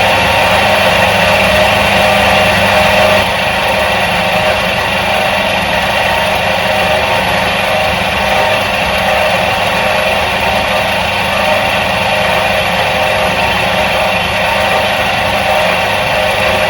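Electric motor of a 1977 Soviet washing machine running steadily with a constant hum and whine, easing slightly in level about three seconds in.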